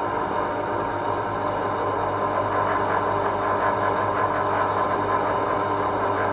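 A small electric power tool's motor running steadily at one speed, a constant even hum.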